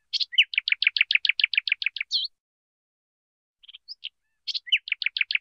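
Bird chirping in repeated phrases: a few quick chirps, then a fast trill of about a dozen notes over roughly two seconds, ending on an upswept note. After a pause of about a second and a half the same phrase starts again and is cut off at the end.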